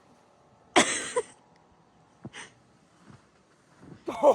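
A man's sharp gasp or yelp about a second in, then a short huff of breath, and laughter starting near the end.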